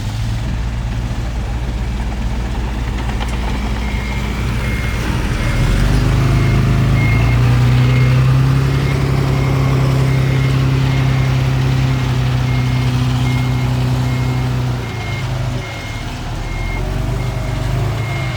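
Heavy diesel earthmoving machinery running. The engine revs up about six seconds in, holds high under load, and eases back near the end. From about four seconds in, a reversing alarm gives a steady string of short beeps at one pitch.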